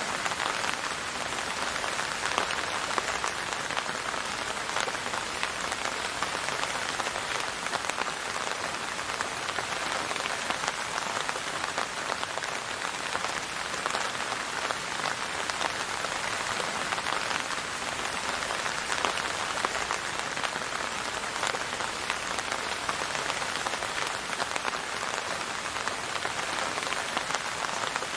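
Steady rain falling on a surface: a dense, even patter of many small drops.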